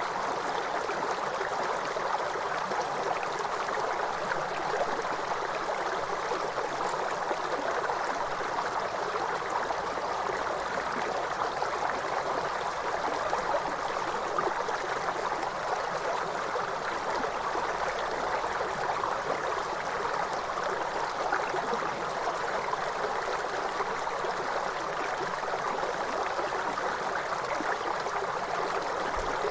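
Waterfall water pouring, a steady even rush with no change.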